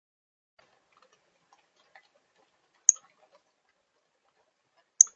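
Two sharp clicks about two seconds apart, with faint scattered ticks between them.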